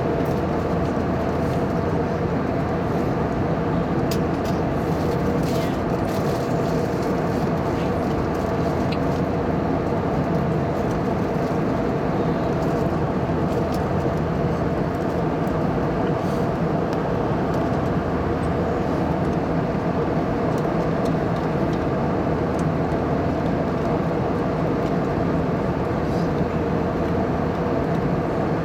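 Steady cabin noise of a jet airliner in flight: engine and rushing airflow blended into an even hiss with a low hum underneath.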